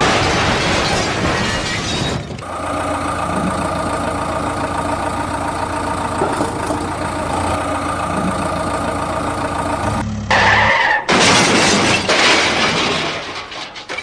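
A vehicle engine runs steadily for several seconds, between loud, noisy stretches at the start and from about three quarters of the way through.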